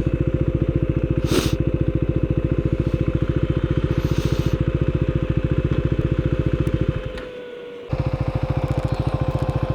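Husqvarna Svartpilen 401's single-cylinder engine idling with an even, fast pulse. The sound drops away for about a second near the end and comes back abruptly.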